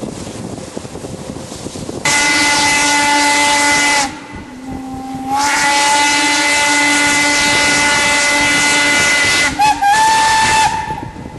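Steam locomotive whistle blowing a chord of several tones: a blast of about two seconds, a longer one of about four seconds, and a short blast near the end.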